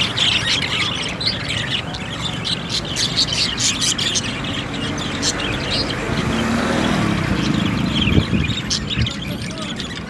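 Small birds chirping and tweeting rapidly throughout, with a low rumble swelling from about six seconds in and fading by about nine seconds.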